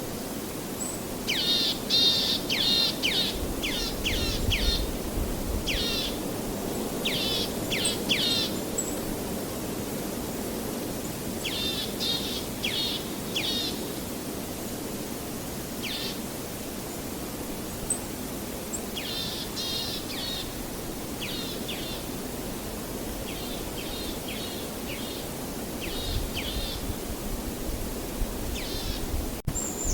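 Songbird chirping in quick runs of short, repeated notes, a dozen or so bursts with pauses between them, over a steady low background rush.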